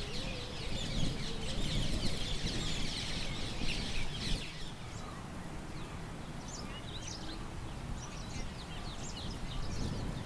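Birds chirping and chattering, a dense flurry of calls for the first half, then scattered short high chirps, over a low rumble of wind.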